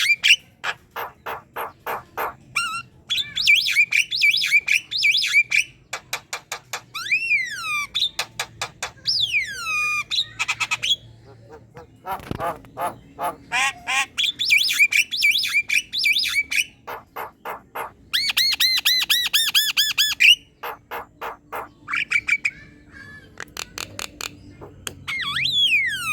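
Javan myna singing a loud, varied chattering song in full voice: rapid runs of sharp clicking notes, harsh squawks and chatter, and clear whistles that slide down in pitch.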